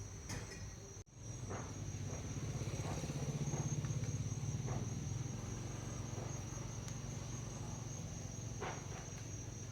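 Steady low hum with a thin, steady high-pitched whine above it and a few faint clicks; the sound drops out briefly about a second in.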